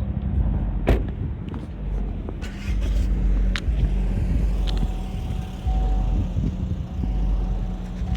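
Gusty wind rumbling on the microphone, rising and falling. There is a faint steady hum underneath and one sharp knock about a second in.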